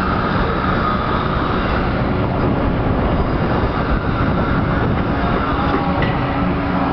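Hitachi Zaxis ZX130 hydraulic excavator's diesel engine running steadily as it digs out a pit.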